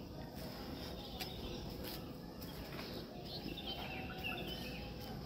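Faint bird chirps over a low, steady outdoor background, with a few soft ticks; the chirps cluster a little past the middle.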